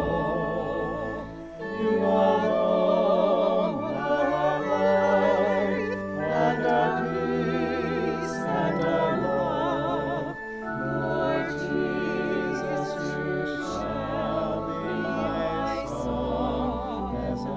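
Classical-style church singing with wide vibrato over sustained low accompanying notes, sung phrases with brief pauses between them.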